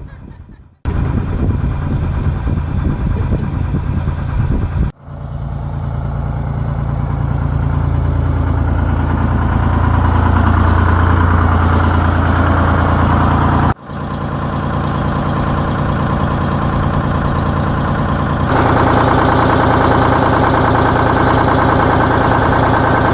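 Detroit Diesel 6V71 two-stroke V6 diesel in a 1969 GMC transit bus, running steadily after a cold start. It is heard in several short clips that cut off abruptly.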